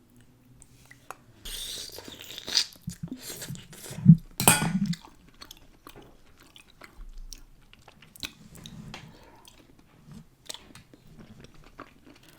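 Close-miked chewing of a spicy seafood boil of mussels, potatoes, corn and eggs: many small wet mouth clicks, with louder noisy bursts of eating about 2 s and 4.5 s in.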